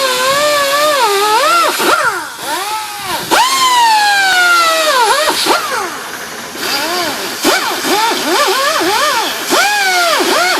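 A small motor, such as a power tool, running with a whining tone whose pitch keeps dipping and rising sharply, several times a second in places.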